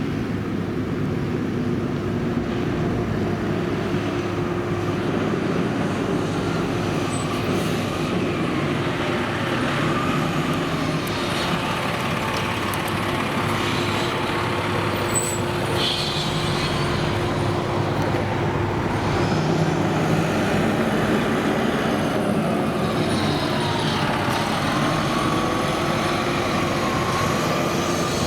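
Heavy fire engines running on the road with steady engine and traffic noise. A faint tone rises and falls a couple of times.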